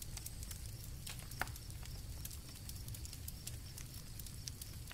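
Campfire crackling: irregular small pops and snaps, with one sharper pop about a second and a half in, over a low steady rumble.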